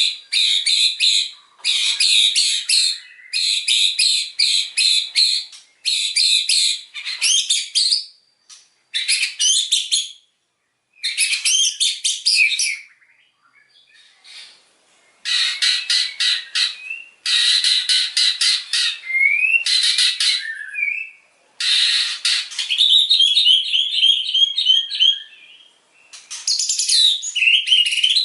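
White-rumped shama (murai batu) singing hard in loud bursts of rapid, repeated high notes, the volleys keepers call 'tembakan'. Each burst lasts a second or two, with short pauses between them and one longer pause about halfway through.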